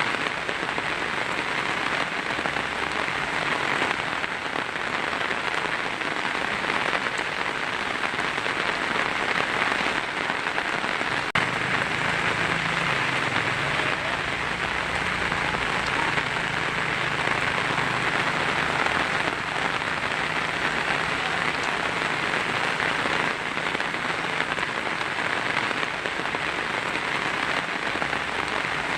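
Steady heavy rain drumming on a tin roof, an even rushing patter with a brief break and click about eleven seconds in.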